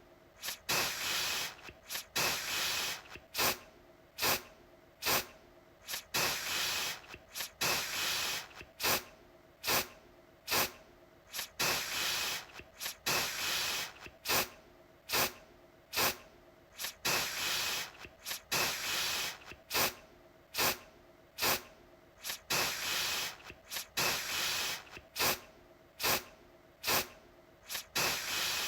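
Aerosol deodorant can spraying in repeated bursts, about one a second. Each hiss starts sharply; some are short puffs and others last about a second.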